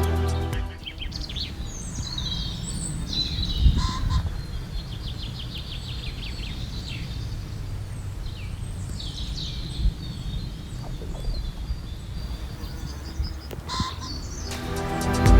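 Small birds chirping and calling in short high twitters and trills, over a low steady background rumble.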